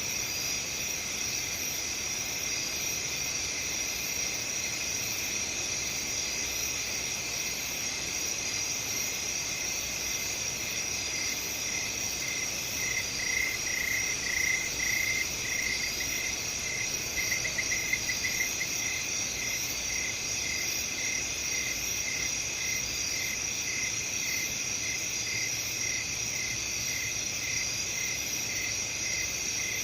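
Crickets chirping in a steady chorus, with one closer cricket's pulsed chirps standing out, loudest around the middle and then repeating about twice a second.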